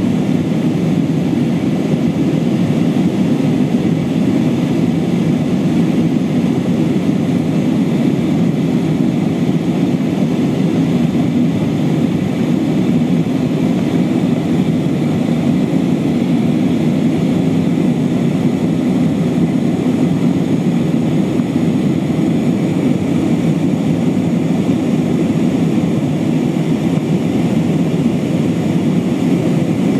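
Steady engine and airflow noise of an Airbus A320-232 in flight, with its IAE V2500 turbofans running at climb power. The noise is an even, low rumble that does not change.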